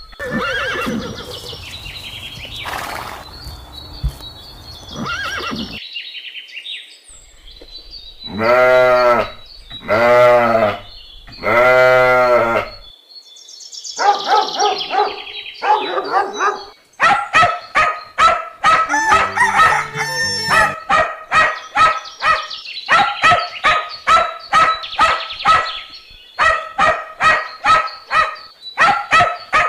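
Farm animal calls: three long calls about a second and a half apart, then a long run of short, quick calls at about two to three a second.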